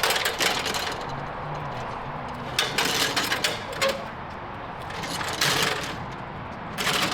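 Rapid metallic clicking and rattling in four short bursts, from a ladder being strapped down to a roof.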